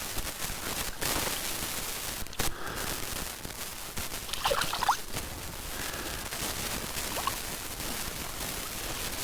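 Steady rain pattering, with a few sharp clicks and a brief cluster of short squeaks and scrapes about four to five seconds in.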